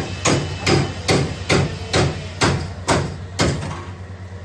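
A hammer striking car body metal in a rhythmic series of blows, about two a second, that stops about three and a half seconds in. A steady low hum runs underneath.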